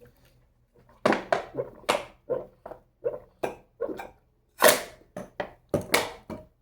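A man coughing and gasping in a quick string of short bursts, the two loudest near the end. It is his reaction to the burn of a straight chug of jalapeño pepper juice.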